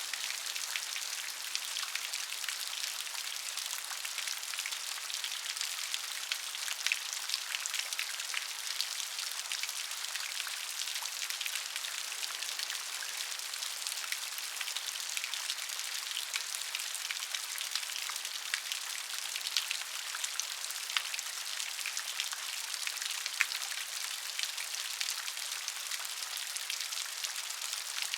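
Steady rain falling on a surface, a constant hiss full of fine, closely spaced drop patters.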